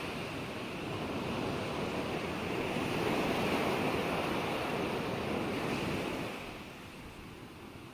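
Ocean waves washing onto a shore: a steady rush of surf that swells and then falls away about six seconds in.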